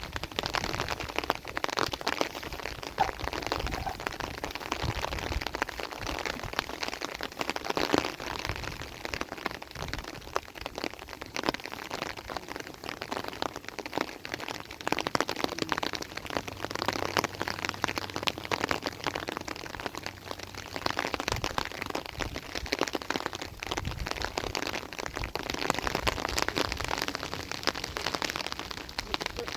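Rain pattering steadily on a surface, a dense mass of small irregular drop ticks.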